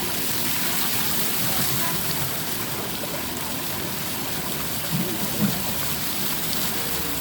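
Water fountain splashing in a steady rush. About five seconds in, two brief voice sounds stand out over it.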